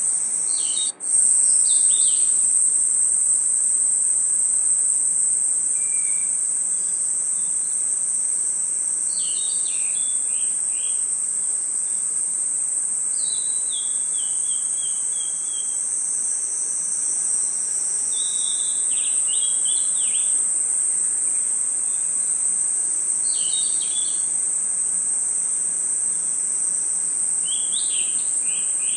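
Steady, high-pitched chorus of crickets and other insects, with a bird singing a short chirping phrase every four to five seconds. The chorus cuts out for an instant about a second in.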